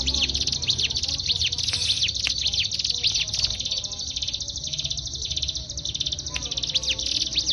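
Ciblek gunung (a prinia) singing without pause: a fast, high, buzzy trill broken by quick downward-sweeping chirps, over a low steady hum.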